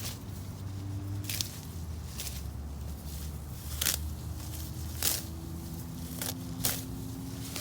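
Grass and weeds being pulled up by hand, giving about six sharp crackling snaps and rips as stems and roots tear loose, over a low steady hum.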